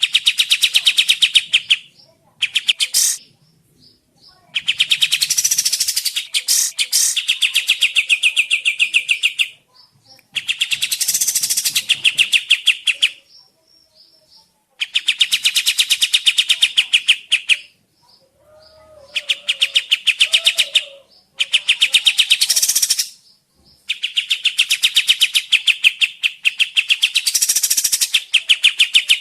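Kapas tembak songbird singing in long bursts of very rapid, repeated chattering notes, each burst lasting a few seconds with short pauses between, a song used as a lure to make other birds of its kind answer.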